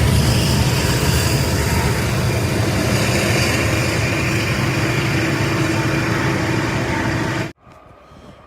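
Train running past, a steady loud rumble with rushing noise, cut off abruptly about seven and a half seconds in.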